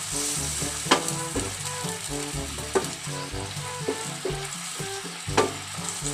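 Diced chicken sizzling in palm oil and butter in a non-stick wok while a wooden spatula stirs it, knocking sharply against the pan three times. Background music plays along.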